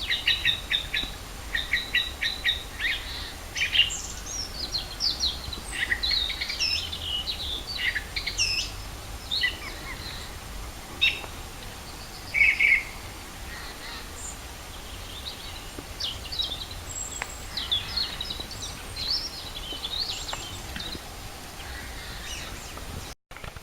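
Wild songbirds singing, several at once, in quick, overlapping runs of short high chirps and trills. One louder call stands out about halfway. The sound cuts out for an instant near the end.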